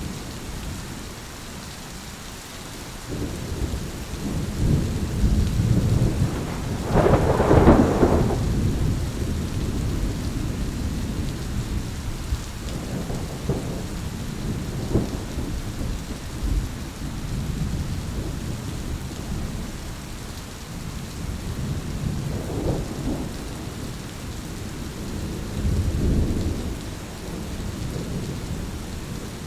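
Thunderstorm: steady rain with repeated rolling thunder, the loudest clap about seven seconds in and softer rumbles later, including one near the end.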